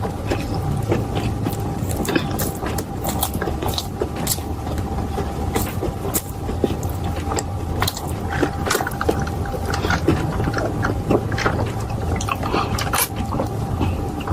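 Close-miked eating sounds: chewing and crunching fried food with many small, irregular wet mouth clicks, over a steady low background hum.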